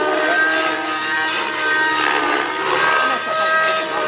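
Radio-controlled model helicopter running, its motor and rotor giving a steady whine with slight rises and falls in pitch.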